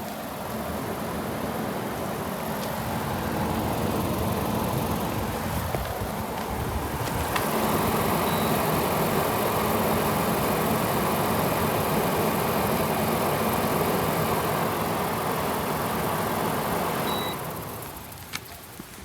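2001 Kenmore 8,000 BTU room air conditioner (WCI-built, R-22) running: a steady rush of air from the blower over a low hum. It gets louder about seven seconds in and drops away near the end.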